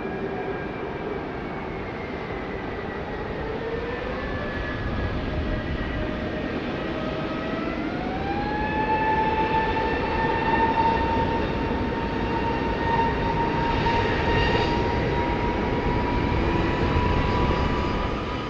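Airbus A320 jet engines spooling up to takeoff thrust over a steady rush of jet blast; the whine rises in two steps, about four and eight seconds in, then holds steady.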